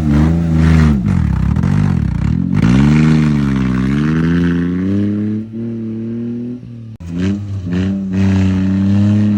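Kei truck's small engine revving, its pitch rising and falling over and over as the throttle is worked. It cuts out briefly about seven seconds in, then runs at a steadier speed.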